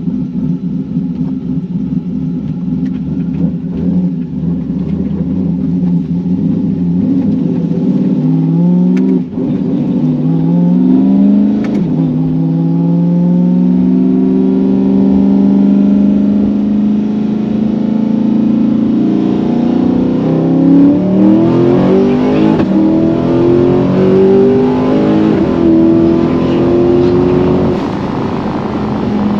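Twin-turbocharged V8 of a 1200 rwhp C8 Corvette on a full-throttle street pull. It runs steadily at first, then revs up in rising sweeps broken by sudden drops at quick gear changes, and climbs hard through a long stretch of stepped rises before easing off near the end.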